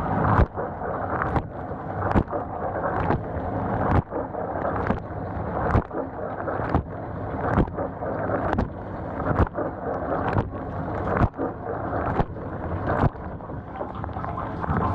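GE GDT655SSJ0SS dishwasher running a wash cycle, water spraying and sloshing inside the tub with a sharp click about once a second. The lower spray arm is not spinning; the cause turned out to be a diverter valve ball stuck with gunk.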